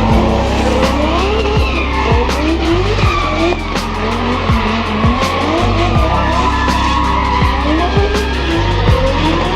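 Barra inline-six-swapped Nissan R31 Skyline drift car on track: the engine revs in repeated rising sweeps while the tyres squeal and skid. Electronic music with a heavy stepped bass line and a regular kick drum plays over it.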